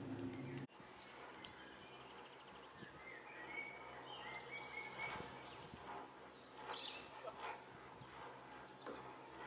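A steady low mechanical hum stops abruptly under a second in. After it come scattered bird chirps and short whistled calls over faint background noise.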